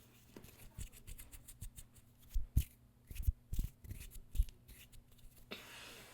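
Handling noises close to the microphone: scattered clicks and rustling with several dull low thumps, then a soft hiss near the end.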